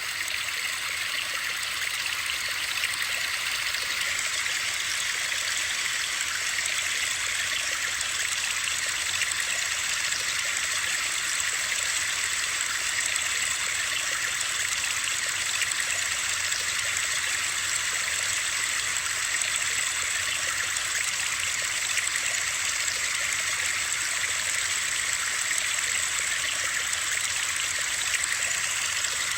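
Steady, unbroken hiss of flowing water, sitting mostly in the upper range with little low rumble.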